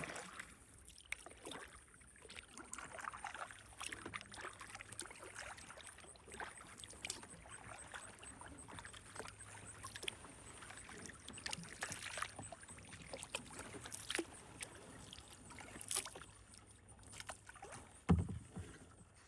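Kayak paddle dipping into calm water in irregular strokes, with light splashes and drips. A single louder thump comes near the end.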